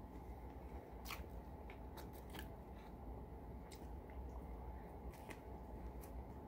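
A person chewing a grilled spaghetti sandwich with toasted bread: scattered soft crunches and mouth clicks over a faint low hum.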